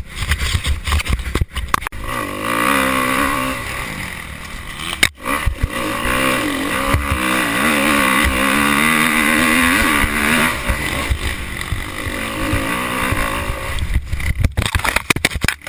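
Dirt bike engine running and revving as the bike is ridden, its pitch wavering up and down with the throttle, loudest through the middle.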